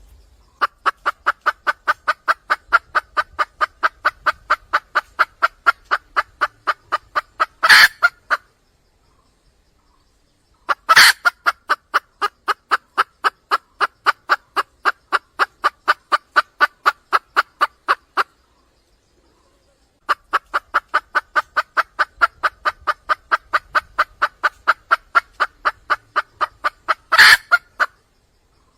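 Junglefowl hen calling in three long runs of rapid clucks, about five a second, with short pauses between runs. Each run carries one louder, harsher note: at the end of the first, at the start of the second and near the end of the third.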